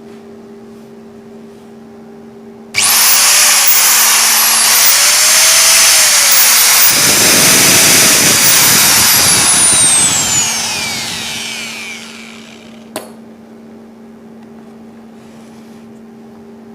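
Hand-held angle grinder switched on about three seconds in, its motor running at full speed with a high whine for about seven seconds, then switched off and winding down over a couple of seconds. A single sharp click follows just after it stops.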